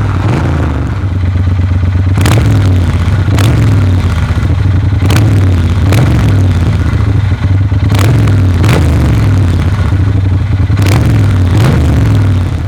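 A Triumph Bonneville T120's 1200 cc parallel-twin with a 270-degree crank, running loud and deep through a de-catted Motone X-pipe and Vance & Hines pea-shooter exhausts while being ridden. The engine note rises and dips several times.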